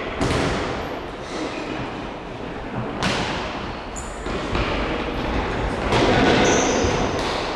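Thuds of a football being kicked and bouncing in an echoing indoor sports hall, over a steady noisy din of play. Two sharp thuds come just after the start and about three seconds in, and the din grows louder about six seconds in.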